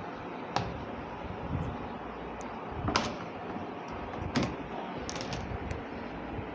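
A few sharp clicks and knocks of the lid and spin tub of a Samsung semi-automatic washing machine being handled, over a steady low background noise.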